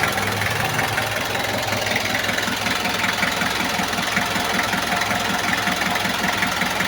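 Diesel engine idling steadily with an even diesel clatter, just after starting. It has new glow plugs and a freshly bled fuel system, which the mechanic says still has some air in it.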